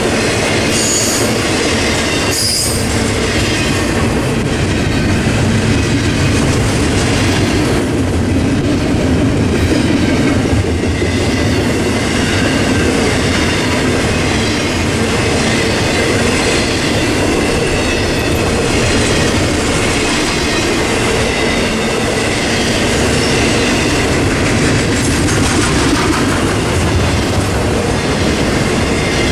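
Double-stack intermodal container train rolling past close by: a steady rumble and clatter of steel wheels on rail, with thin wheel squeal over it and a couple of brief high screeches in the first few seconds.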